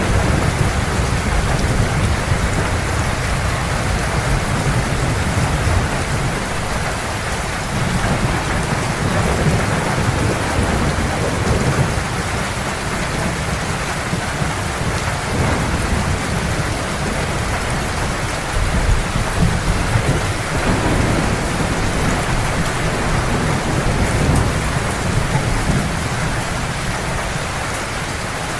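Heavy rain falling steadily, with low rolling thunder that swells and fades under it.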